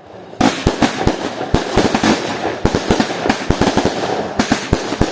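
Fireworks going off in a rapid, irregular string of sharp bangs, several a second, with crackling between them, starting about half a second in.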